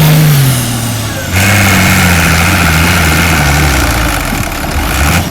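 Pulling tractor's engine, its revs falling off, then opened up again about a second and a half in and running hard with a slowly sinking pitch, before a brief rise near the end.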